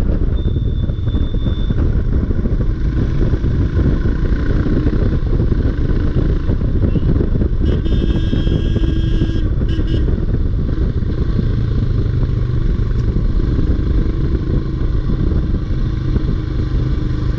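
Motorcycle riding at speed, engine and wind noise rushing over the microphone without a break. About eight seconds in, a brief high tone with several overtones sounds for about two seconds.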